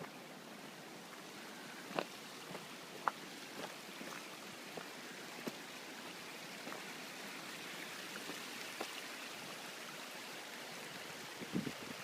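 A mountain brook's water running steadily as a background rush that grows slightly louder, with scattered sharp clicks and a cluster of knocks near the end.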